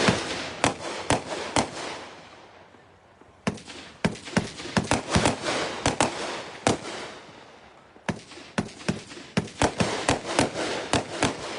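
30-shot consumer firework cake firing: rapid sharp reports, several a second, in three volleys with short lulls between.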